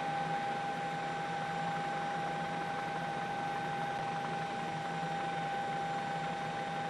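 Steady cabin noise of a news helicopter in flight: an even hiss with a constant high whine and a low hum, unchanging throughout.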